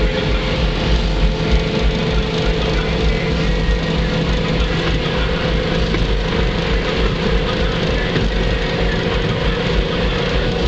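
Dodge Neon's 2.0-litre SOHC four-cylinder engine running steadily at high speed, heard inside the cabin under heavy wind and road noise with a low rumble.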